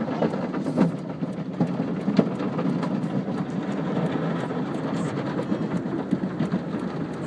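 Automatic car wash: cloth ribbon strips slapping and rubbing against a car, a steady dense rumble broken by many irregular slaps.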